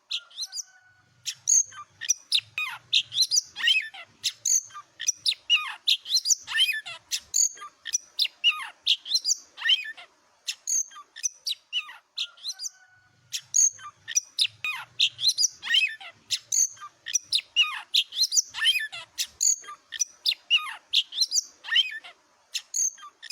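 Oriental magpie-robin singing vigorously: a loud, varied run of clear whistles, rising and falling sweeps and sharp chirps, broken by short pauses. The same song sequence comes round again about every eleven seconds.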